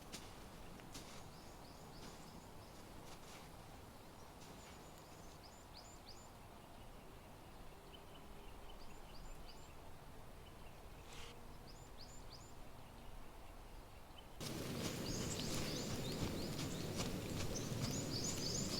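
Outdoor ambience with small birds giving short, high, falling chirps, faint at first. About fourteen seconds in, a louder steady rustling noise comes in suddenly and the chirping grows louder.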